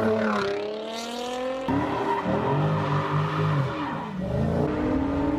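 Performance car engines revving in a run of short cuts: the pitch falls and climbs again, rises and falls, then climbs and holds near the end.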